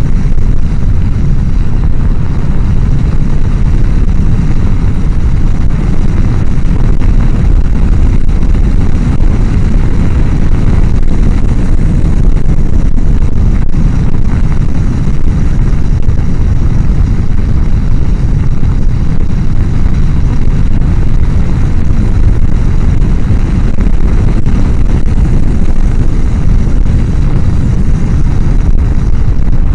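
Steady wind roar on a helmet microphone while riding a Honda CBR1000F motorcycle at speed, loud and even, with no clear engine note standing out. The roar comes from the microphone sitting right behind the helmet's chin-bar air vent.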